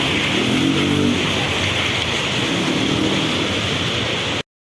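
250cc ATV quad bike engine running under a loud, steady hiss. Its engine note comes up twice. All sound cuts off abruptly near the end.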